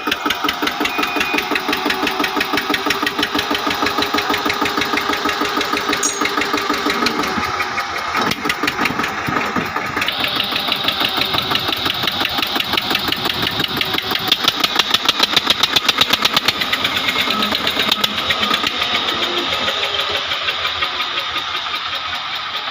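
Heavy diesel engine of a tractor or backhoe loader running hard with rapid, even firing pulses. Its note changes about 8 and 10 seconds in, and it grows louder in the middle.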